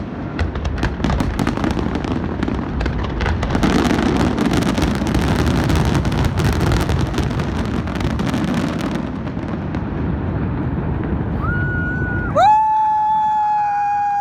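Fireworks going off in a dense run of crackling bursts over a steady rumble, thinning out after about nine seconds. About twelve seconds in, a loud, steady, high-pitched held tone starts suddenly and lasts about two seconds.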